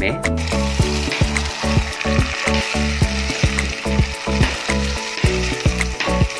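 Chopped tomatoes hitting hot oil and fried onions in a steel pot start sizzling suddenly about half a second in, and keep sizzling as they are stirred with a metal spoon. Background music with a steady beat plays underneath.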